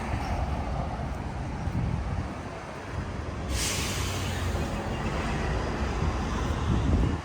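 City street traffic running past, a steady low rumble of passing vehicles. About halfway through a sudden hiss of air cuts in and fades over about a second.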